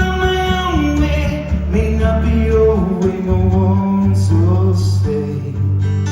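Man singing a slow country song over acoustic guitar strumming.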